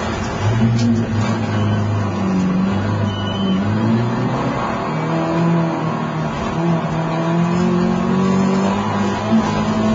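Mini rallycross car's engine under racing load, heard from inside the cabin: its note climbs and then drops several times as the driver shifts and lifts.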